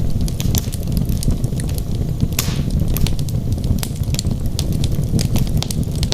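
Wood fire burning in a fireplace: dense crackles and sharp pops over a steady low rumble of flame. About two and a half seconds in there is a brief hiss from the burning wood.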